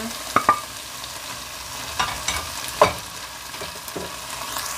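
Chicken and vegetables sizzling in oil in a pot while a wooden spatula scrapes and stirs them. A few sharp knocks of the spatula sound through it, the loudest nearly three seconds in.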